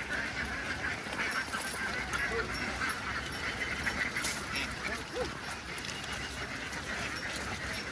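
A large flock of domestic ducks calling all at once, a steady din of many overlapping quacks, with a few lower single calls standing out now and then.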